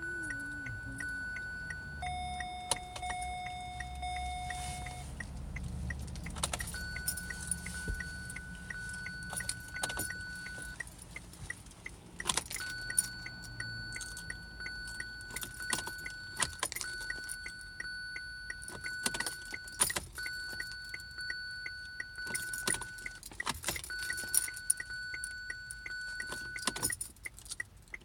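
Irregular sharp metallic clicks and rattles, like keys, over a steady electronic beep tone that breaks off and restarts every few seconds, with a lower tone a couple of seconds in.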